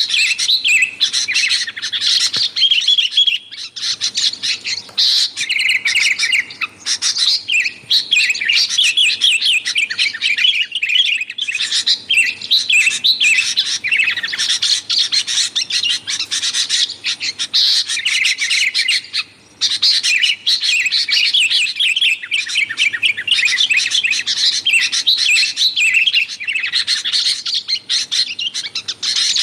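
Sooty-headed bulbul (kutilang) singing and calling in a busy, nearly unbroken stream of rapid chattering notes, with a short break about two-thirds of the way through.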